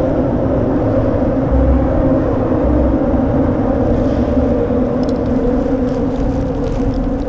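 A boat motor running with a steady hum, while wind buffets the microphone in low rumbles.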